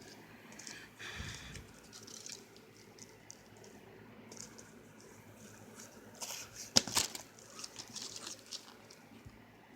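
Packaged fireworks being handled, with plastic wrapping and cardboard crinkling and rustling, and a sharp knock about seven seconds in.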